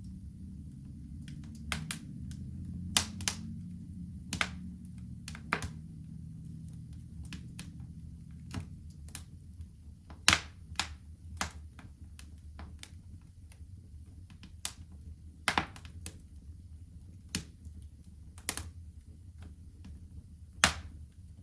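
Wood fire crackling in a fireplace: about twenty sharp pops at irregular intervals over a low, steady rumble of the flames.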